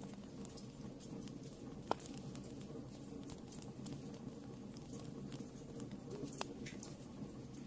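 Wood fire burning in a fireplace: sparse crackles and sharp pops, the loudest about two seconds in, over a low steady rumble of the flames.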